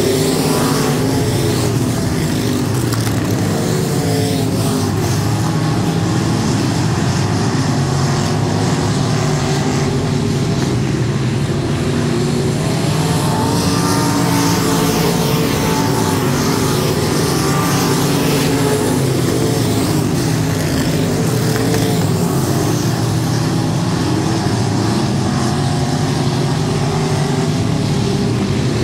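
Limited modified race car engines running hard and continuously, their pitch rising and falling in waves as the throttle comes on and off.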